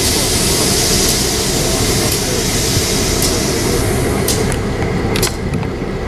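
A passenger train rolling past with a steady rumble and hiss; about four seconds in the hiss eases and the wheels click sharply several times over the rails.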